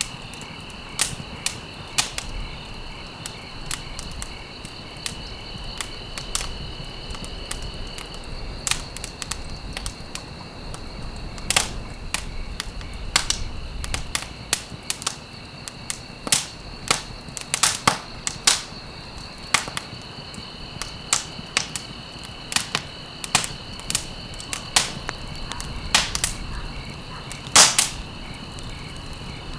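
Wood fire crackling in a fireplace: irregular sharp pops and snaps, sometimes several a second, over a low rumble of flame. A thin, steady high tone sits under the crackle for the first several seconds, stops, and comes back about two-thirds of the way through.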